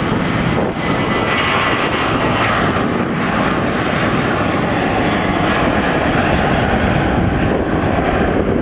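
Boeing 737-700's CFM56-7B jet engines at takeoff power: a loud, steady roar with a faint high whine running through it.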